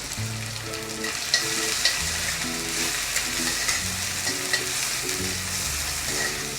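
Crushed shallots and garlic frying in hot coconut oil, a steady sizzle with scattered crackles.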